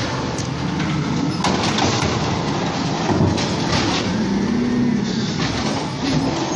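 Garbage truck at work: its diesel engine runs under a loud, continuous mechanical clatter, with knocks and clanks throughout. A brief whine rises and falls about four to five seconds in.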